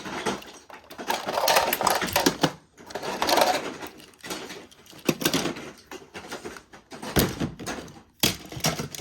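Toy train set pieces being handled: irregular clicking, clattering and knocking, with some rustling between the knocks.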